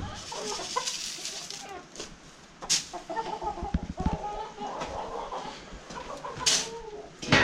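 Domestic chickens clucking continually, with a few short, sharp noises mixed in.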